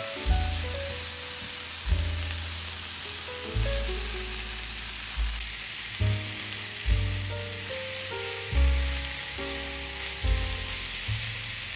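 Chopped vegetables (onion, pepper, tomato and grated zucchini) sizzling steadily in oil in a frying pan while being mixed, with background music of low bass notes and a simple melody over it.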